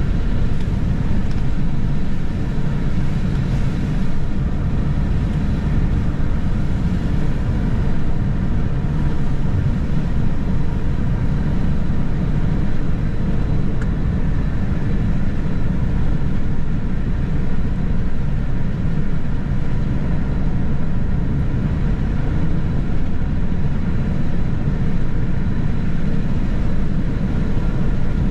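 Steady road and engine noise inside a moving car's cabin: a low, even rumble of tyres and engine at a constant speed.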